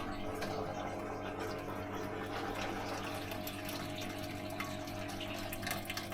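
Small liquid pumps humming steadily while water runs and splashes, as sparge water is pumped over the mash and wort drains out.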